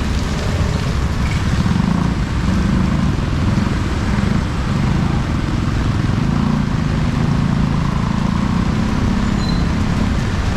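Steady street noise in heavy rain: an even hiss of rain with the low sound of motor vehicle engines running, swelling and easing.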